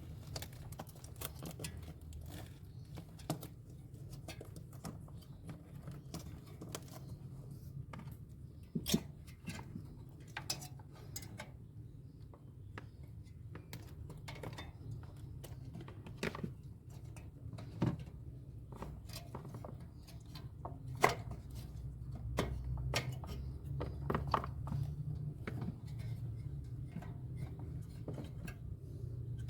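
Scattered light clicks and knocks of hand work on refrigerator parts, a few sharper ones standing out, over a steady low hum.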